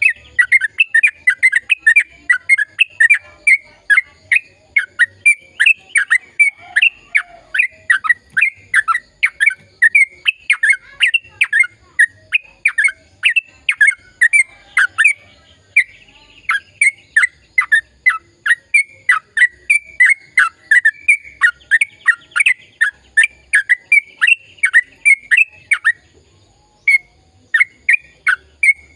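Sooty-headed bulbul (trucukan) singing a long unbroken run of quick repeated notes, about three a second, with a short pause near the end.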